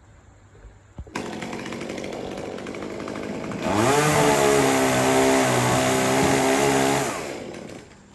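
Chainsaw starting up suddenly about a second in and running low, then revving up with a rising pitch to a steady high whine for about three seconds before dropping away near the end.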